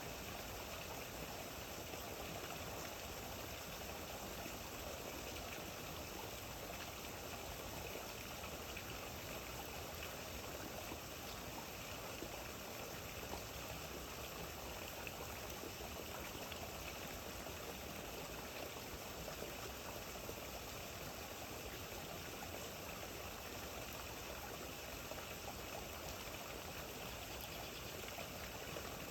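Steady rain falling: an even, continuous wash of water noise.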